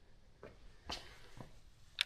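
Quiet room with three faint, soft taps or knocks about half a second apart.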